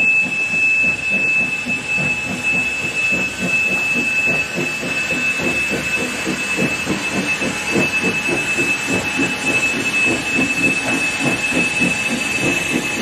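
Train running on the rails: a steady, rapidly repeating low rumble with a constant high-pitched whine over it.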